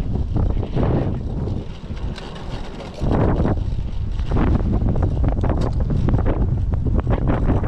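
Strong typhoon wind buffeting the microphone in gusts, heaviest in the low rumble. It eases briefly about two seconds in and comes back suddenly at three seconds.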